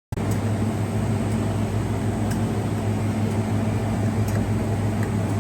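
Vehicle engine running, a steady low hum with an even hiss over it, starting abruptly and holding level.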